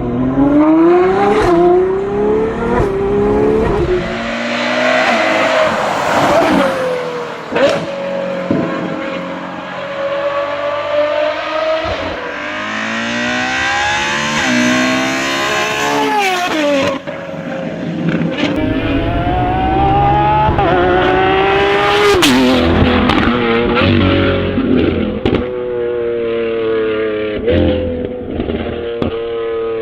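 V12 sports car engines accelerating hard, the pitch climbing steadily and then dropping sharply at each gear change, several times over.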